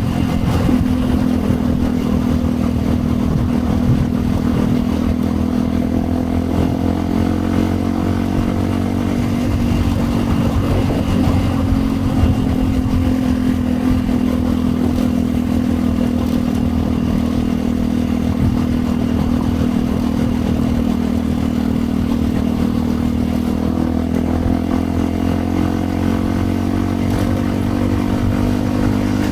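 A 2010 Yamaha WR 125 X's single-cylinder four-stroke engine, breathing through an aftermarket Yoshimura exhaust, pulls steadily as the bike rides along. Its pitch holds fairly even and eases down and up a little at times.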